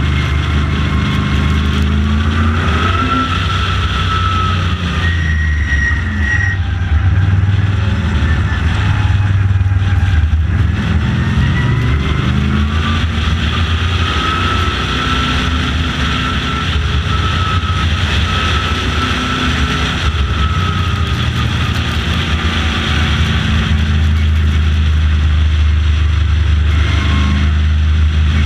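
Late model stock car's engine running hard at racing speed, its pitch rising and falling slowly as the car goes through corners and straights.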